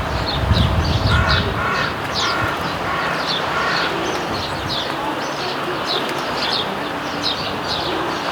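A flock of house sparrows chirping continually, many short high chirps overlapping. A low rumble comes in the first second.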